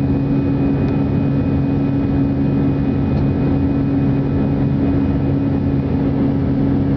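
Airbus A319 jet engines and airflow droning steadily after takeoff, with a constant low hum and a faint high whine over the noise.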